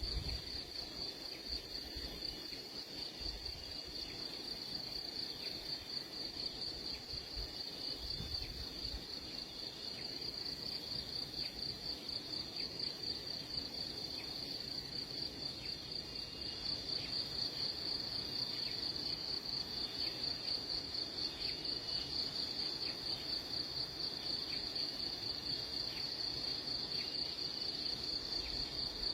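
Insect trilling: one steady, high-pitched, rapidly pulsing buzz that grows a little louder about halfway through.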